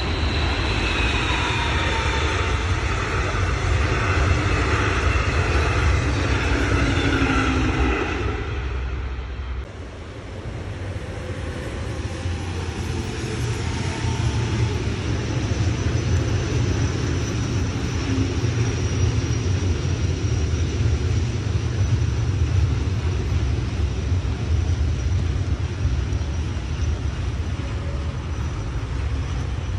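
Trains passing on an electrified main line. For the first eight seconds a passing train sounds with several wavering tones over its running noise. After a brief dip, an electric locomotive and its container freight wagons roll past with a steady low rumble.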